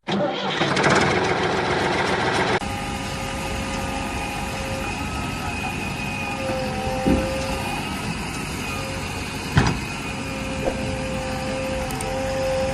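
A small DC motor running with a steady whine, after about two and a half seconds of loud hiss that cuts off suddenly. A sharp click comes near the end.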